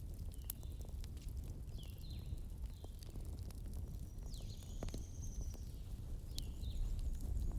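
Wood campfire burning with a steady low rumble and scattered sharp crackles and pops.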